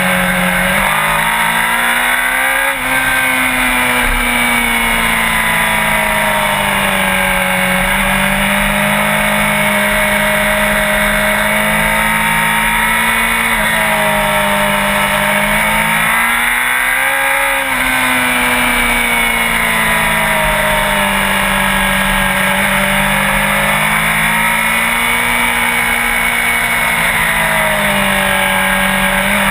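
Sport motorcycle engine running steadily at high revs. Its pitch climbs twice, about two seconds in and again around seventeen seconds in, each time dropping sharply at the top.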